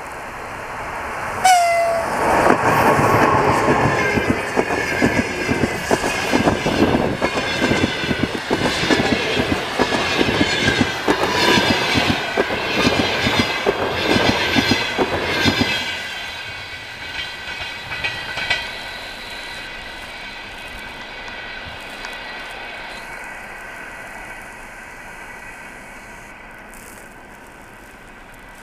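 EP20 electric locomotive and its passenger coaches passing at speed. A sudden loud burst comes about a second and a half in as the locomotive draws level, followed by a fast clickety-clack of the coaches' wheels over the rail joints for about fourteen seconds. The sound then fades into a dwindling rumble with a thin steady whine as the train moves away.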